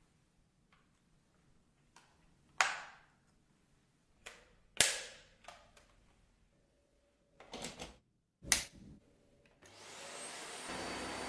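Dyson Ball Animal 2 upright vacuum cleaner: several sharp clicks as it is handled, then the motor starts near the end, rising to a steady run with a high whine.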